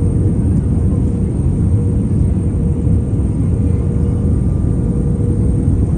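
Steady in-flight cabin noise of a passenger aircraft: a constant low rumble of engines and airflow with a faint even hum.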